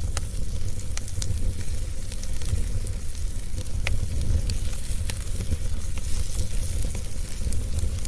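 Wood fire crackling, with scattered sharp pops over a steady low rumble; one pop stands out about four seconds in.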